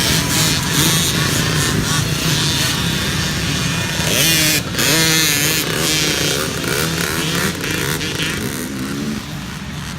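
Several small youth dirt bikes racing, engines revving up and down, with a few quick rising and falling revs about halfway through. The sound eases a little near the end.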